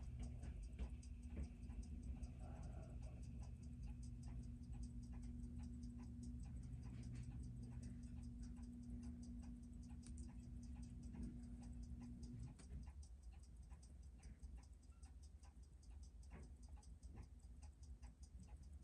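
Seiko 6105 automatic watch movement ticking evenly and quickly, freshly serviced with a new balance and mainspring. A low steady hum stops about twelve seconds in.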